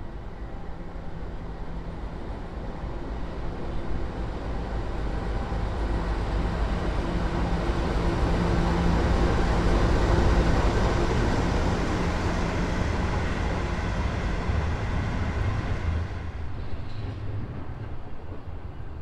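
Diesel locomotive passing: a steady engine drone with wheel and rail noise that grows louder to a peak about halfway through, then fades.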